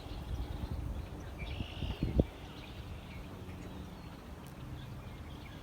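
Quiet outdoor evening ambience: low wind rumble on the microphone, faint bird chirps, and a soft thump about two seconds in.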